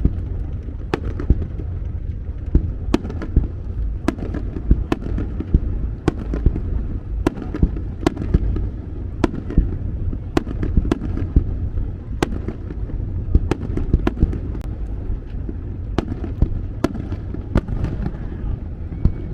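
Aerial fireworks going off in quick succession: sharp bangs and crackles, one or two a second, over a continuous low rumble of booming shells.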